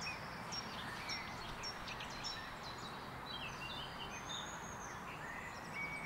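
Small birds chirping and singing in short, high notes, over a steady outdoor hiss.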